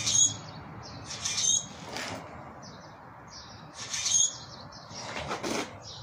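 A bird calling: about five short, high chirps spread over a few seconds, the loudest at the start and about four seconds in.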